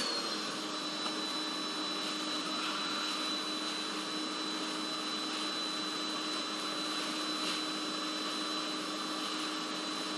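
Steady electric motor hum with a constant high-pitched whine, unchanging throughout.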